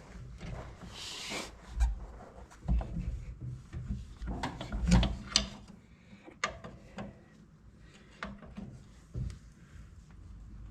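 Irregular knocks, clicks and scraping of parts being worked by hand while a wheel-bearing part is being fitted into place, with a short hiss about a second in.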